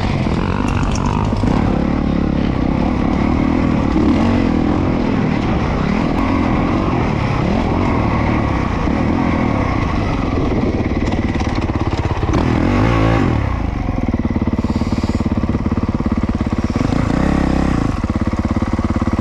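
Honda CRF450RWE single-cylinder four-stroke motocross engine being ridden, its pitch rising and falling with the throttle. About two-thirds of the way in it rises sharply, then settles into a steady, evenly pulsing low run, with one short rev near the end.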